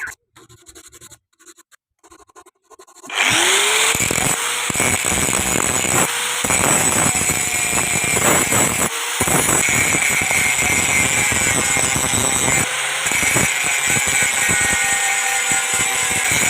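An electric power tool spins up about three seconds in, then runs steadily against steel as the knife is worked, with a few brief dips where the contact eases.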